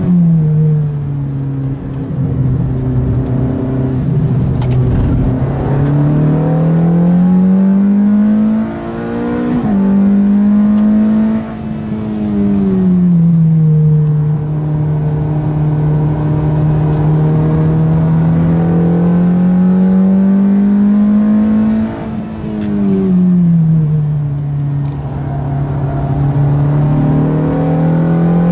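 Ferrari F430's 4.3-litre V8 through a Capristo aftermarket exhaust, heard onboard as the car is driven on track. The engine note climbs slowly and falls several times, with a few brief dips in loudness.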